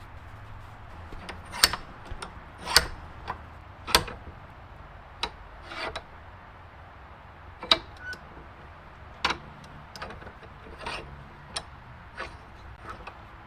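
About a dozen sharp, irregularly spaced clicks and knocks, roughly one every second, from hand tools and parts being handled during mechanical restoration work on a car.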